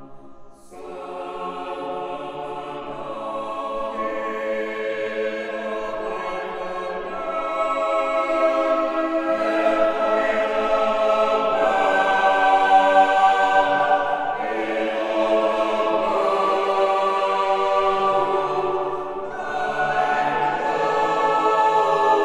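Unaccompanied choir singing an anthem in held full chords, breaking off briefly about half a second in, then building steadily louder, with a short dip near the end before swelling again.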